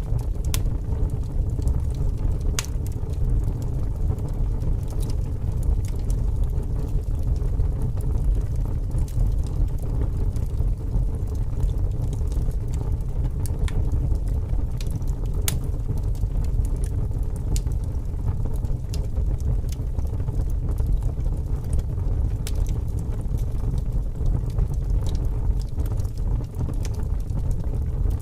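Wood fire burning, with sharp scattered crackles and pops from the logs every second or two, over a steady low rumble of strong wind.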